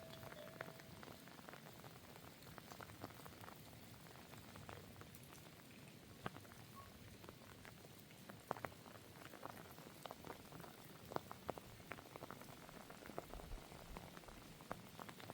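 Rain falling, a faint steady hiss with drops ticking irregularly.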